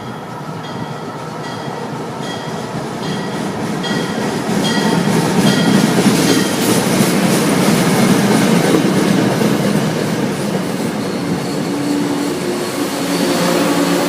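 A train running into the station, its rumble and wheel noise on the rails growing louder and peaking in the middle. A bell rings about twice a second for the first half, and steady tones come in near the end.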